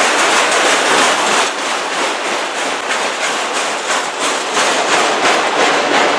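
Freight train cars rolling past at close range, the wheels clacking over rail joints in a steady rhythm.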